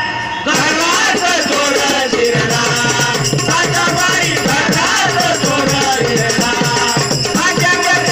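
Marathi devotional bhajan: voices singing over a steady beat of jingling hand cymbals and percussion.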